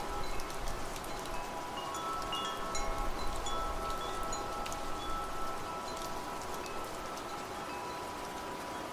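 Wind chimes ringing, several metal tones struck irregularly and sustaining over steady rain; strikes come thickest in the first half.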